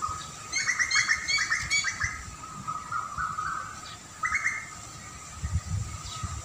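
Small songbird chirping: a quick run of short chirps, then a shorter burst of chirps a couple of seconds later, over a steady thin high tone. Low rumbles come in near the end.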